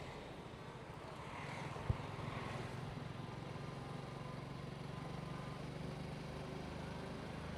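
Motorcycle engine running steadily while riding, with road and wind noise, and a single sharp knock about two seconds in.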